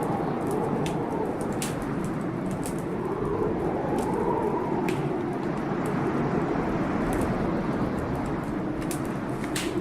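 Wood fire crackling, with sharp pops every second or so, over the steady rush of a storm whose wind howl rises and falls.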